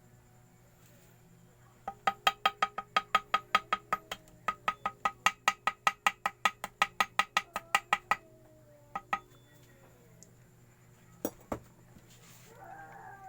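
A rapid run of ringing taps, about six a second for some six seconds with a short break, then a few single knocks. Near the end comes a faint falling call.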